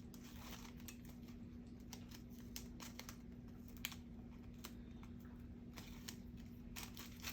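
Faint, scattered light clicks and taps of paper and card craft pieces being handled and pressed together, over a steady low electrical hum.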